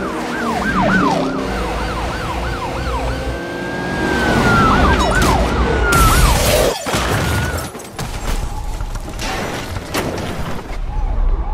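An emergency-vehicle siren sounds in quick rising-and-falling yelps, with one longer held note partway through. It stops about six seconds in, giving way to a short loud rush of noise and then scattered knocks.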